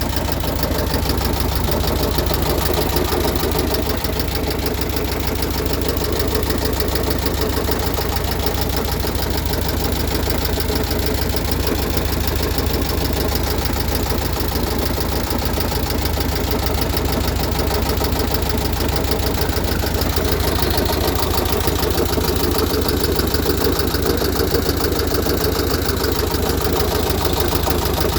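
Volkswagen Beetle's 36 hp air-cooled flat-four engine idling steadily with a persistent knock. The engine is freshly rebuilt with the valves correctly adjusted; the owner fears rod knock but hopes it is a loose oil cooler rattling inside the fan shroud.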